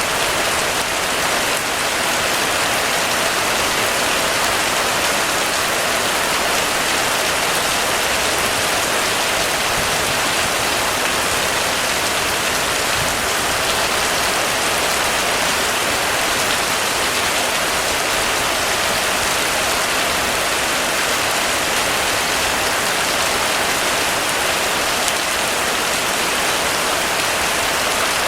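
Heavy, steady rain falling on a surface, a dense even hiss with no thunder.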